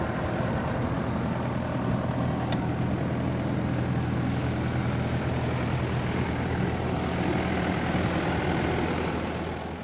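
Engine-driven rice threshing machine running steadily, a constant engine drone mixed with the noise of threshing palay.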